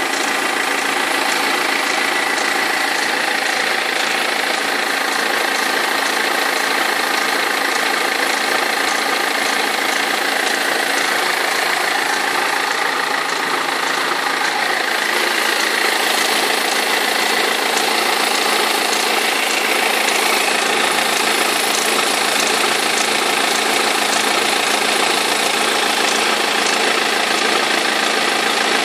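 BMW E46 320d four-cylinder diesel engine idling steadily with a knocking and rattling from its crankshaft pulley / vibration damper, whose rubber has perished.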